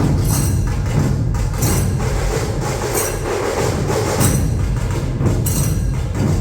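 Dhol-tasha ensemble playing: massed dhol barrel drums pounding with rattling tasha drums, loud and dense, with bright crashes recurring roughly every second.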